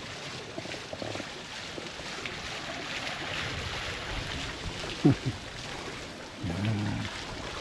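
Mountain stream water rushing steadily. About five seconds in there is a brief, loud sound falling sharply in pitch, and near the end a short low hum.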